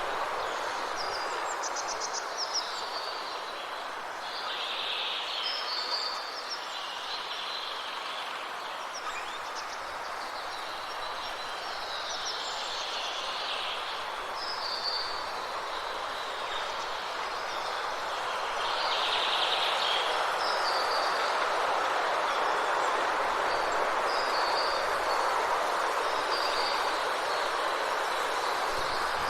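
Forest ambience: a steady rushing noise with birds calling over it in short, repeated chirps and trills. The rushing grows a little louder about two-thirds of the way through.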